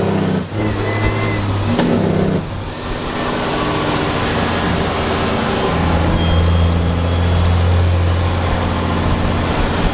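Semi truck diesel engine running, its pitch shifting up and down in steps for the first couple of seconds, then settling into a steady low drone from about six seconds in.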